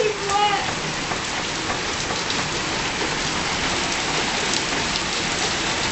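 Heavy rain pouring down onto a wet flagstone yard, a steady dense hiss of drops hitting the stone.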